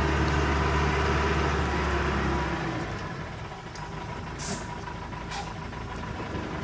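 Heavy truck engine running, loud at first and dropping off about two and a half seconds in, followed by two short air hisses.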